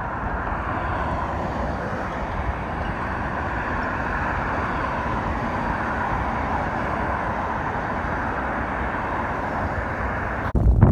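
A car driving at speed, with a steady road and engine noise. Near the end this switches abruptly to a louder, gusty low rumble like wind buffeting the microphone.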